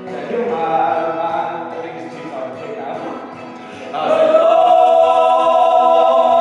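Song with sung vocals over instrumental accompaniment. About four seconds in it swells into a louder, long held note.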